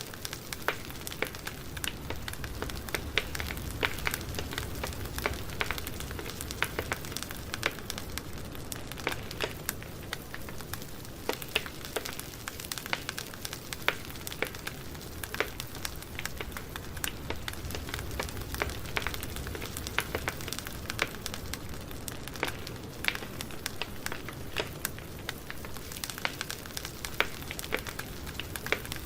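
Campfire burning: many irregular sharp crackles and pops over a steady low rumble of the flames.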